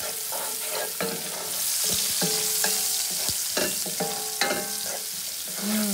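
Diced onion and garlic sizzling in hot olive oil while a wooden spoon stirs them around the pan, with a steady hiss and scattered knocks and scrapes of the spoon against the pan.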